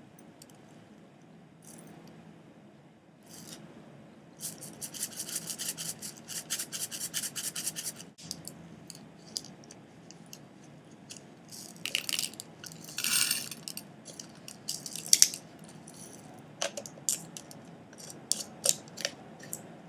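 Kitchen handling sounds of spice containers being opened and spoons measuring out spices. A quick run of rhythmic scraping comes about four seconds in, followed by scattered light clinks and clicks of spoons and containers.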